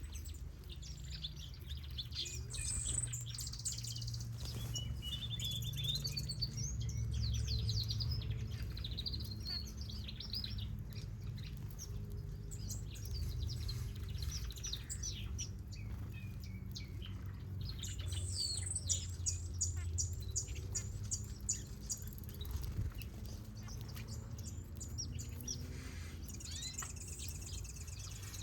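Mixed aviary finches and softbills chirping and whistling, with many short overlapping calls and a fast run of repeated notes about two-thirds of the way through, over a steady low hum.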